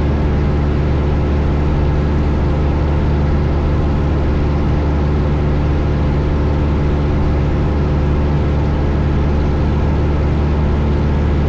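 1972 Cessna 172 Skyhawk's four-cylinder piston engine and propeller droning steadily in flight, heard inside the cabin with a steady hiss of airflow over it.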